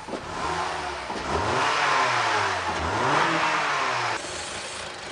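Car engine revved hard with its brake booster vacuum hose pulled off, a deliberate vacuum leak to provoke misfires. The engine note rises and falls twice under a rushing hiss, then drops back to idle about four seconds in.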